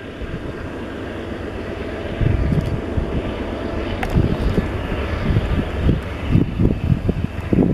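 Union Pacific diesel-electric locomotives hauling a container train on an upper track, heard as a steady, uneven low engine rumble with faint humming tones above it.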